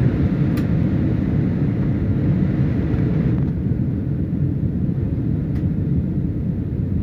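Airliner cabin noise during the landing approach: a steady low rumble of engines and rushing air. About three seconds in, the higher hiss above it falls away and the low rumble carries on.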